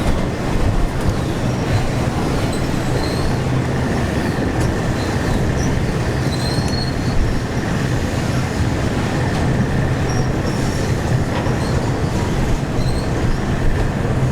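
Train running on the rails, a steady loud rumble with a faint steady whine joining about four seconds in and a few brief high squeals from the wheels.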